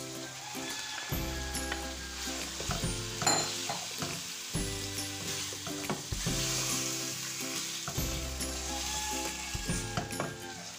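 Raw boneless chicken pieces sizzling as they fry in hot oil with ginger-garlic paste in a non-stick wok, stirred with a wooden spatula. The chicken is still giving off its water.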